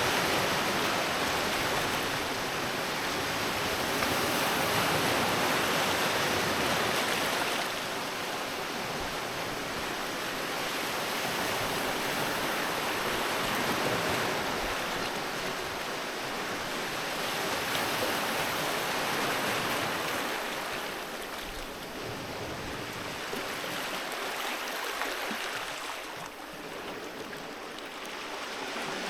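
Sea waves breaking and washing up a beach in slow swells, a steady rush of surf that rises and falls every few seconds.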